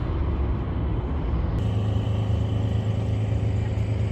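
Steady low engine rumble, which changes abruptly about one and a half seconds in to a steadier low hum.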